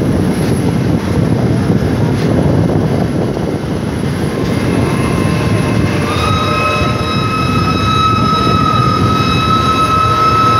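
Steady rumble and wind rush of a moving train heard through an open carriage window. About halfway in a long, steady, high train whistle sets in, faint at first, then strong and held.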